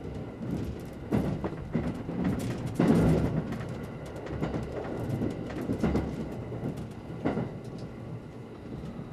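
Running noise inside a limited express electric train carriage: a steady low rumble of wheels on rail with irregular clacks as the wheels cross rail joints and points, the loudest clatter about three seconds in.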